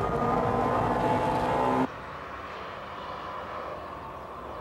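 Honda Civic Type R EK9's B16B four-cylinder VTEC engine heard from inside the cabin, loud and held at steady high revs. It cuts off abruptly a little under two seconds in, giving way to the much quieter, distant engine and road noise of a Porsche 996 heard from trackside as it drives away.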